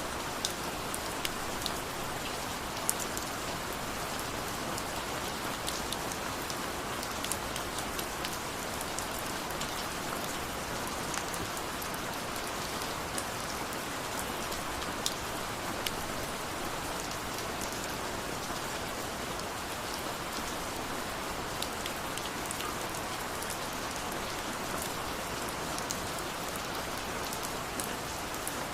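Steady rain falling, an even hiss with many scattered sharper drop ticks throughout.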